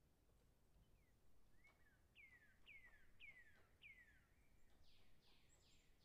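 Faint birdsong: four clear whistles, each sliding downward, about half a second apart, then a few rougher, higher notes near the end.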